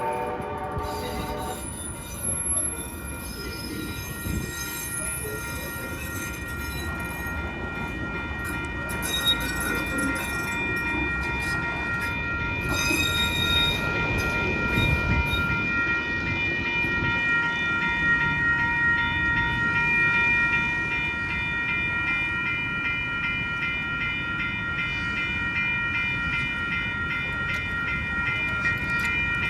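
A train passing through a grade crossing: a horn blast cuts off about a second and a half in, then the wheels rumble steadily with a high squeal of several held tones.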